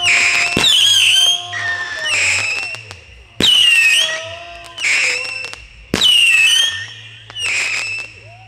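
Consumer fireworks firing shot after shot: each a sharp launch crack followed by a shrill whistle about a second long that dips in pitch, with crackle, every second or two.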